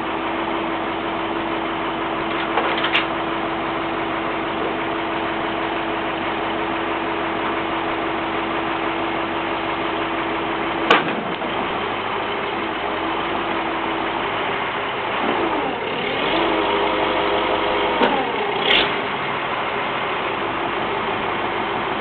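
A motor running steadily, with a few sharp knocks. About two-thirds of the way through, a pitched whine rises and then falls in pitch.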